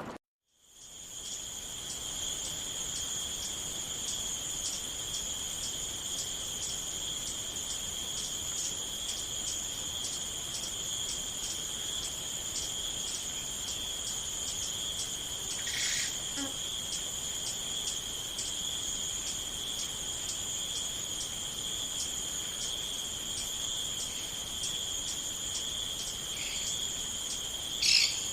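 Crickets chirping in a steady, high, rapidly pulsing trill, which starts right after a brief moment of silence at the beginning. A short extra call stands out about halfway through, and a louder one near the end.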